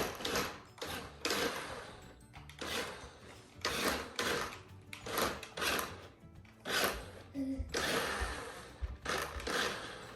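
Remote-controlled monster truck's small electric motor whirring in short, irregular bursts as the throttle is pulsed to steer it around obstacles.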